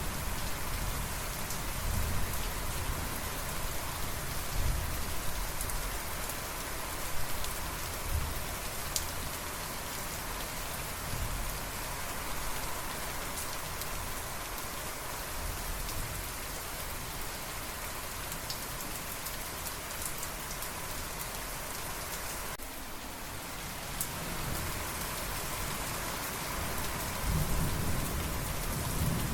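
Steady heavy rain falling, with low thunder rumbling in swells through the first half and again near the end.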